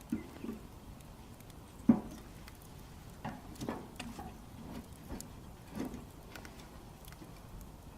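Wood bonfire crackling: irregular snaps and pops, the loudest about two seconds in, with a few duller knocks.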